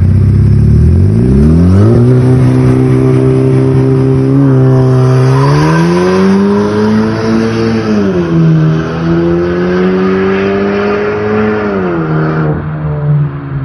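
Tuned VW Golf 5 GT 1.4 TSI twincharged four-cylinder with a Varex exhaust: revs rise and hold steady for a couple of seconds on launch control, then the car launches and accelerates hard, engine pitch climbing and dropping twice as the DSG gearbox shifts up.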